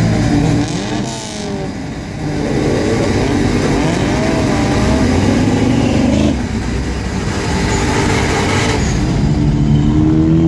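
Several cars' engines revving and accelerating away together, their exhaust notes overlapping and swinging up and down in pitch, with a brief lull about a second in.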